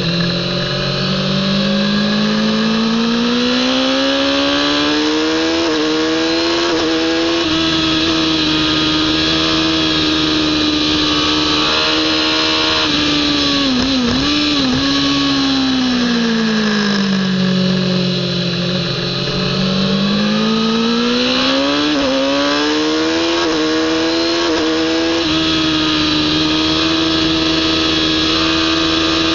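Kawasaki ZX-10R inline-four engine at racing speed, heard from a camera on the bike. The revs climb through the gears with a short drop at each upshift, fall away for about three seconds past the middle as the bike slows, then climb through the gears again and hold high.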